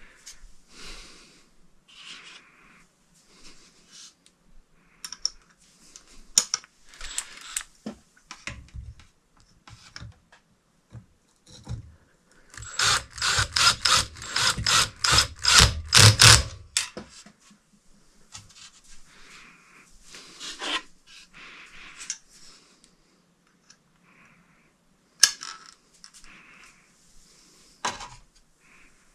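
Screws and a screwdriver at work fastening ceiling fan blades: scattered clicks, taps and rubbing. Midway comes a fast, even run of clicks, about five a second, lasting about four seconds, which is the loudest part.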